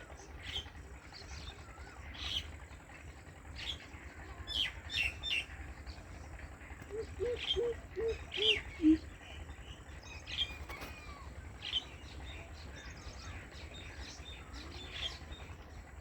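Greater coucal (crow pheasant) giving a run of about six deep hooting notes around the middle, the last one lower, amid frequent short high chirps from other birds. A faint steady high tone runs underneath.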